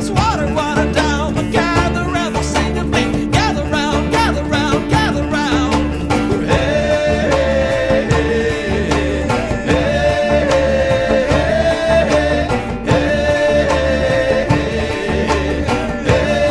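Country band music with a steady beat and guitar. A wavering melodic line in the first six seconds gives way to long held notes that repeat a short phrase every two or three seconds.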